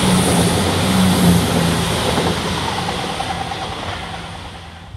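Class 170 Turbostar diesel multiple unit passing beneath and running away, its engines loudest at first and fading steadily over the next few seconds. A faint steady whine comes in about halfway through.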